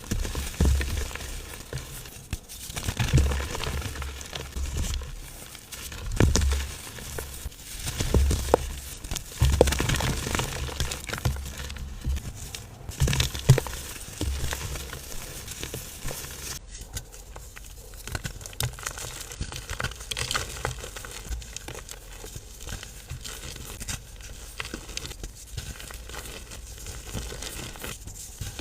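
Blocks of compressed powder being crushed and crumbled by hand close to the microphone: dense, irregular crunching and crumbling. The crunches are heavier at first, with low thumps. About halfway through, after a break, a softer, steadier crumbling takes over.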